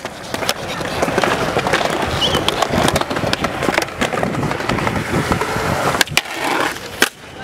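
Skateboard wheels rolling on smooth concrete, with several sharp clacks of the board, two of them clear near the end.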